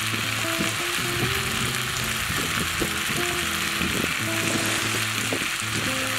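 Meat and vegetables frying with a steady sizzle in a cast-iron pan, stirred with a wooden spoon that scrapes and knocks now and then. Low background music plays underneath.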